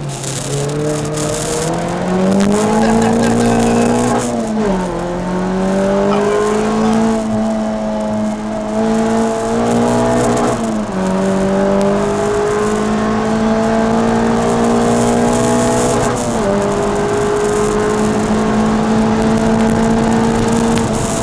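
Peugeot 306 Rallye engine heard from inside the cabin, pulling hard at high revs on a race track. The engine note climbs at the start, then dips briefly three times, about 5, 11 and 16 seconds in, as gears change, and holds high between.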